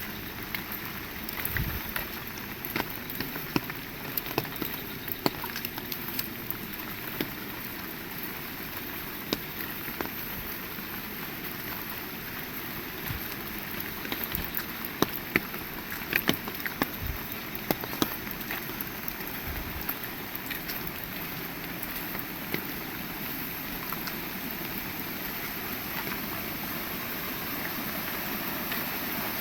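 Heavy rain falling steadily, with many sharp drop impacts close by, slowly growing louder toward the end.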